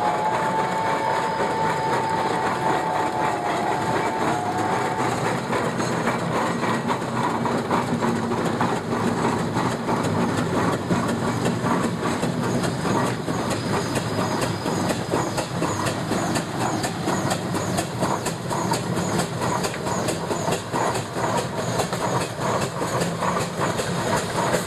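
Steam traction engine running on the road: a steady mechanical clatter of close, regular beats that become more distinct in the second half. A high, slightly wavering tone sounds over it for the first few seconds.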